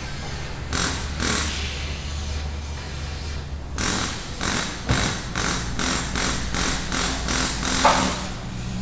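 Auto repair shop ambience: a steady low hum with hand-tool work over it. Two short strokes come about a second in, then a quick run of about three strokes a second from about four seconds in until near the end.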